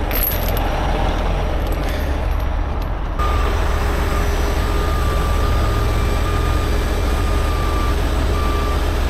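Heavy truck's diesel engine running, joined about three seconds in by a backup alarm beeping at an even pace.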